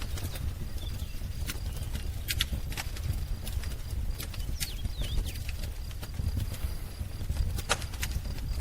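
Wood fire crackling, with irregular sharp pops over a low rumble of the flames, the loudest pop near the end. A few faint bird chirps sound in the background.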